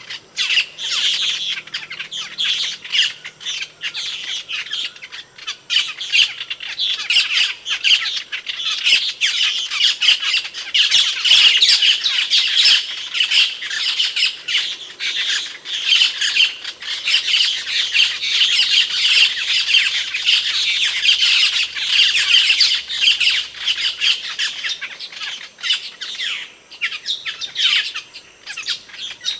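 Asian glossy starlings (Aplonis panayensis) calling: a dense, continuous run of many short, sharp, shrill calls packed closely together.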